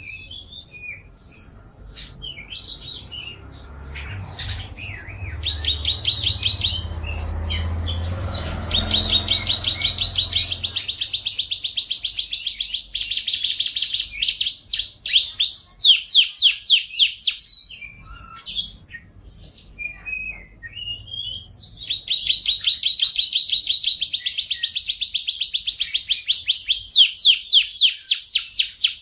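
Domestic canary singing: long trills of rapidly repeated high notes, each phrase held for a few seconds before switching to another, with scattered chattering notes between phrases. A low rumbling noise sits under the song for several seconds in its first third.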